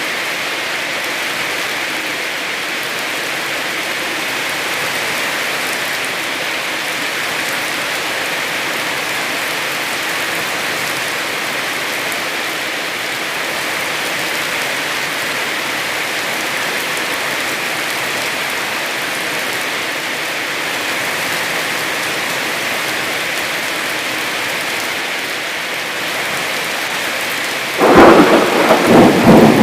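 Heavy rain falling steadily, then a sudden loud clap of thunder near the end, rumbling on.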